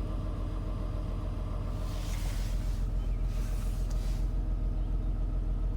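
2000 Infiniti I30's 3.0-litre V6 running under load with a steady low rumble, shaking from a misfire.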